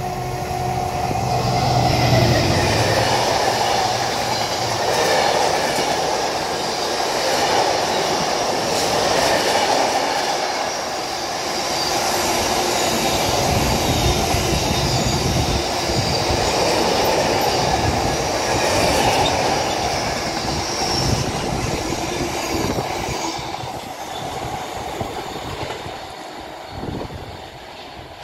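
Class 70 diesel locomotive passing at the head of a long freight train of bogie tank wagons. Its engine drone is heard for the first few seconds, then the steady rumble and clatter of the wagon wheels on the rails, with a faint high squeal at times, fading over the last few seconds.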